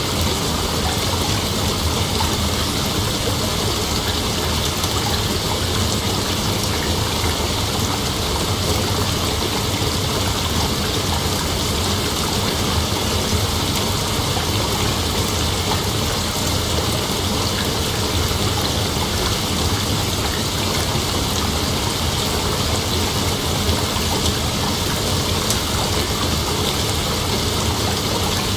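Night insect chorus, a dense steady drone with no breaks or changes, sitting mostly high in pitch over a faint low rumble.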